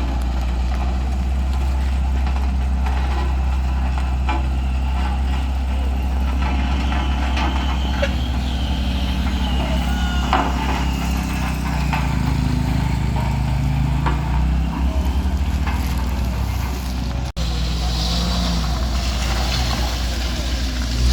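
Road vehicle engines running, a truck among them, over a steady deep rumble; the sound breaks off for an instant about 17 seconds in.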